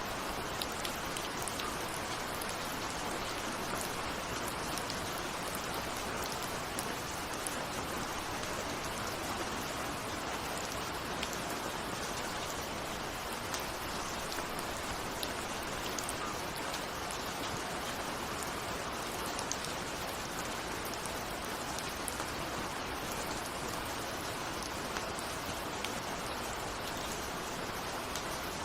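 Steady rain falling, an even hiss dotted with the light ticks of single drops hitting a window.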